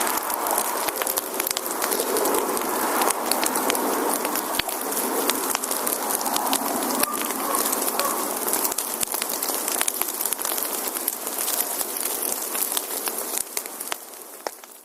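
Campfire of burning firewood crackling, with many sharp pops and snaps over a steady hiss. It drops in level near the end and fades out.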